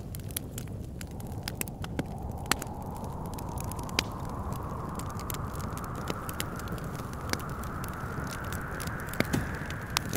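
Wood fire crackling with frequent sharp pops, over a steady wind whose whistle slowly rises in pitch.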